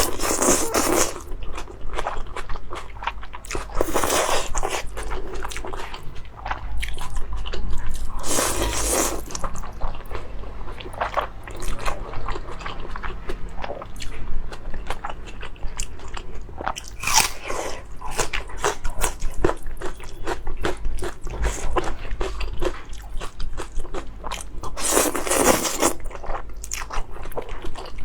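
Close-miked eating: a person biting, crunching and chewing food in a dense run of small clicks, with several louder bursts of noise.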